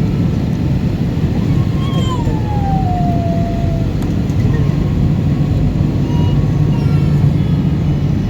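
Steady low rumble of an Airbus A320's engines and rushing air heard from inside the cabin, with a short tone sliding downward a couple of seconds in.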